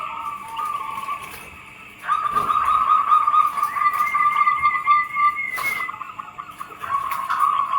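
Zebra doves (perkutut) cooing: long runs of rapid beaded notes at one steady pitch. The song fades near the start, comes back louder at about 2 s, and a second, higher-pitched run of notes overlaps it in the middle, with a sharp click a little later.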